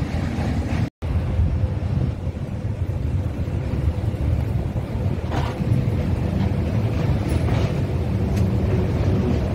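Steady low rumble of a passenger train running, heard on board, with a split-second dropout about a second in.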